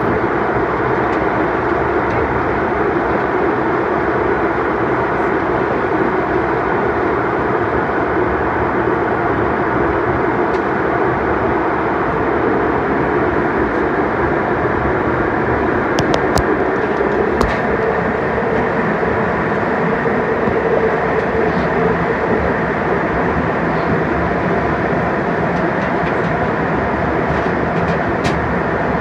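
Steady roar of an airliner's engines and rushing air heard inside the passenger cabin, with a few brief clicks partway through and near the end.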